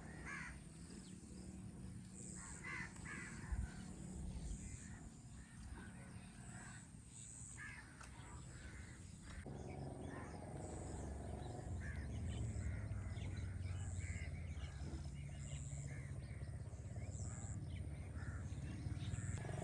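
Crows cawing, short calls repeated every second or two. About halfway through a low steady rumble sets in and grows louder.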